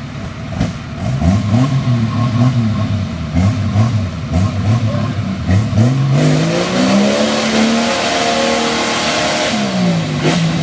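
Off-road vehicle engine revving in a series of short throttle blips, about six in the first six seconds, then held at higher revs for several seconds, dropping briefly near the end and rising again.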